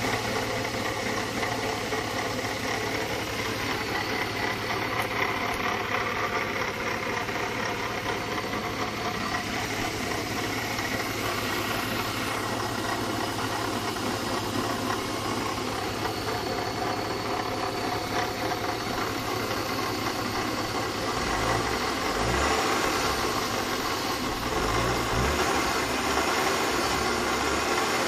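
BMW E36 320i's M50B20 2.0-litre inline-six running steadily at idle, with the noise of a failing water pump. A few low thuds come in about two-thirds of the way through.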